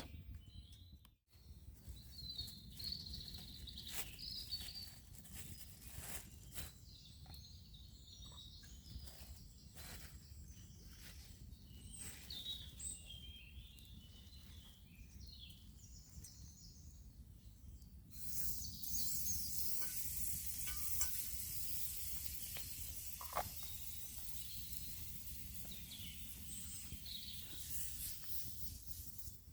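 Oat pancake batter sizzling in a hot cast iron skillet over a twig stove. A steady high sizzle starts suddenly about two-thirds of the way in, after scattered small clicks; the pan is a bit too hot.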